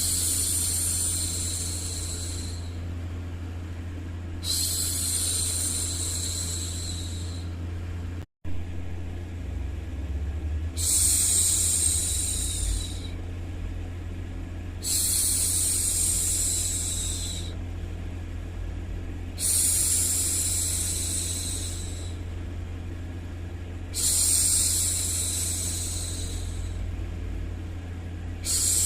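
A woman's long hushing "shhh", repeated about every four to five seconds, each one lasting two to three seconds, over a steady low hum. All sound drops out for a split second about eight seconds in.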